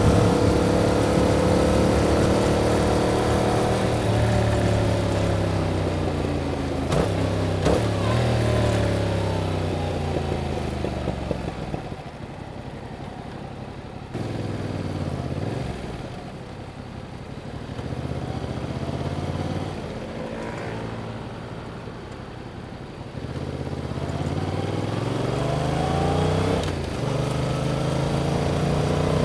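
2021 Yamaha MT-07's 689 cc parallel-twin engine, heard through its stock exhaust on the move. It revs up through the gears with a quick gear change about seven seconds in, then eases off and runs low and quieter through the middle. Near the end it pulls hard again, shifting once more and rising in pitch.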